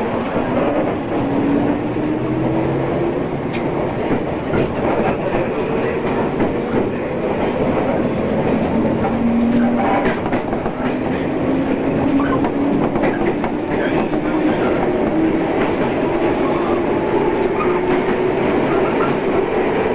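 JR East 113 series electric train running, with steady rolling rail noise. A motor whine rises slowly in pitch as it gathers speed.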